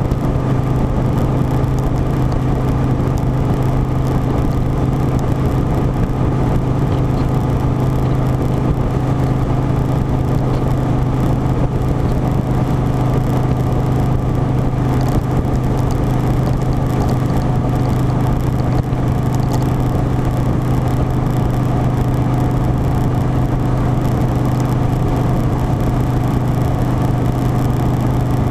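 Harley-Davidson Softail Standard's V-twin engine running at a steady, unchanging pitch.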